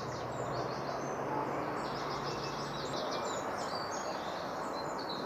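Small birds chirping in quick high trills, over a steady hiss of outdoor background noise.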